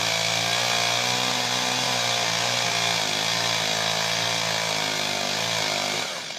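Chainsaw engine running at high speed, its pitch wavering slightly, then dropping away about six seconds in.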